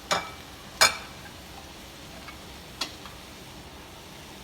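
Three sharp metallic clinks of kitchenware, each with a short ring, over the faint steady sizzle of chicken frying in a pan.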